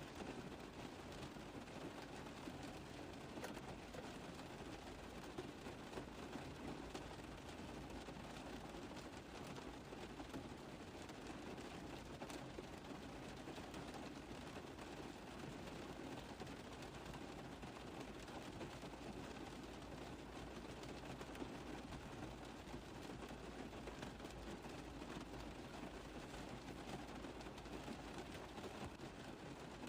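Steady rain pattering on a car roof, a dense, even spread of small drop ticks.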